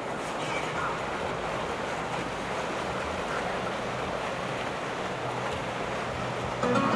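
Steady rush of wind and moving water, with no distinct events.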